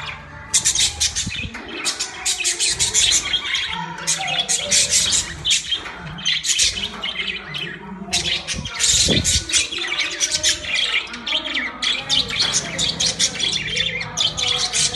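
Budgerigars chattering and chirping: rapid, scratchy, high-pitched calls coming in bursts one after another.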